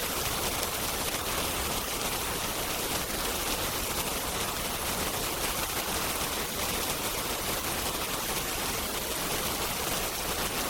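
Steady hiss of rain with faint, scattered crackles from a wood fire.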